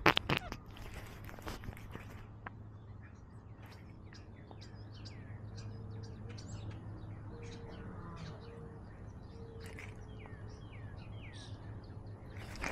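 Small birds chirping: many short high calls, with a few quick falling notes near the end, over a low steady hum. A brief crunch of footsteps on gravel comes at the very start.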